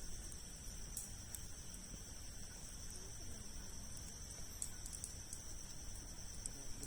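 Steady high-pitched trilling of crickets or other night insects, with a few sharp pops and crackles from a campfire burning large logs, over a low steady rumble.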